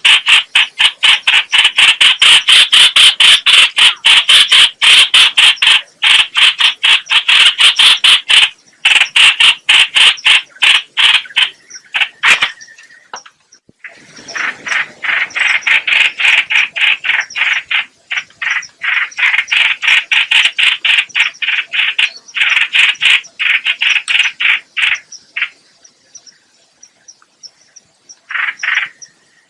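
Trao trảo (chao chảo) bird calls, played loud as a trapper's lure recording: rapid harsh notes, several a second, in long chattering runs. There is a pause about halfway, and a short burst near the end.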